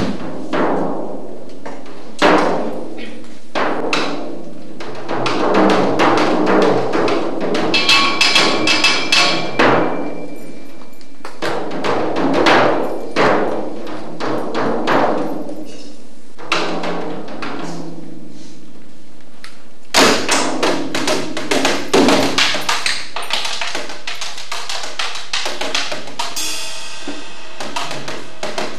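Live free-form percussion: irregular drum strikes that ring on and die away, with a bright metallic shimmer about eight seconds in and a dense flurry of quick strikes after about twenty seconds.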